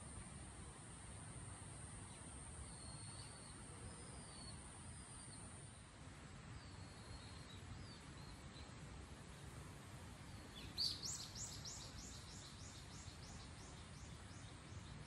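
Outdoor ambience with birds: faint scattered chirps, then about eleven seconds in a bird gives a loud call, a sharp first note followed by a run of about a dozen quick downward-sliding notes, about three a second, that fade away over some four seconds.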